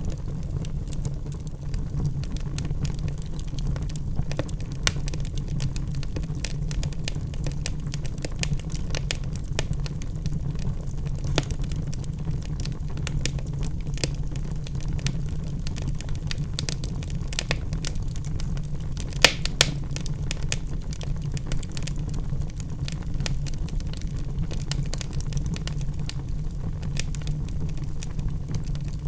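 Wood fire in a fireplace crackling, with scattered sharp pops over a steady low rumble of the flames; the loudest pops come as a close pair about two-thirds of the way through.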